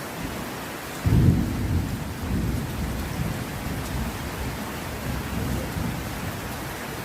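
Heavy rain falling steadily. About a second in, a loud thunderclap breaks out and rolls on as low, wavering rumbling that slowly dies away.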